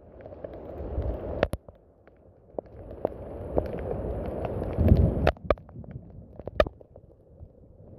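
Rain: a low rushing noise that swells and fades, loudest about five seconds in, with a few sharp, loud drips or taps on top, about one and a half, five and six and a half seconds in.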